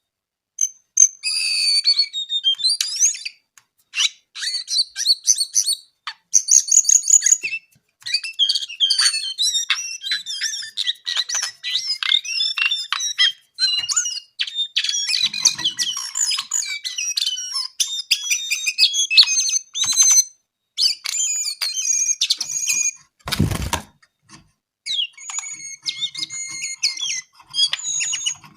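A brown jongkangan singing long runs of fast, high-pitched chattering song phrases, broken by short pauses. About three-quarters of the way through there is a single loud, low thump.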